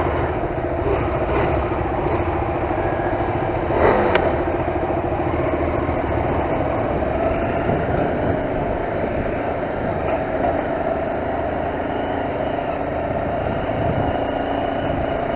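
Motorcycle engine running steadily, with a low rumble of wind noise, and a brief sharp knock about four seconds in.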